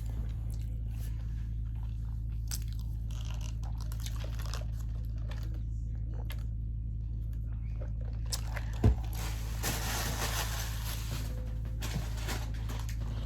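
A person chewing and biting food close to the microphone: faint wet mouth clicks over a steady low hum, with a single knock about nine seconds in.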